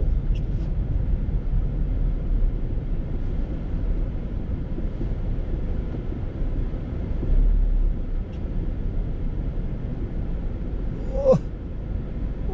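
Storm wind buffeting the microphone as a steady low rumble, swelling for a moment about halfway through, with a brief squeak near the end.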